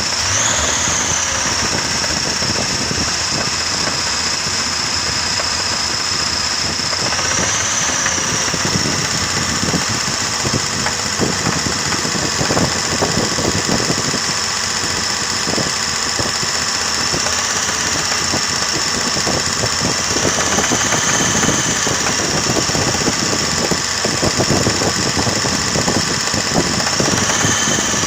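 3.0-litre BMW straight-six engine running with a rapid, uneven knock from within the engine: the unfamiliar knock that has newly appeared. A high whine above it rises briefly about four times.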